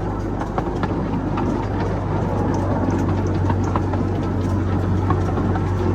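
Steady low engine drone and running rumble of a small passenger ride train in motion, heard from aboard.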